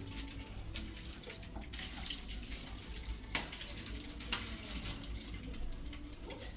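Faint water running or splashing in a kitchen, with a few light clicks and knocks over a steady low hum.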